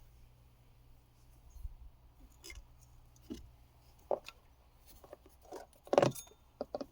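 Scattered metallic clicks and knocks of hand tools working the accessory drive belt off the engine, growing busier in the second half with the loudest knock about six seconds in.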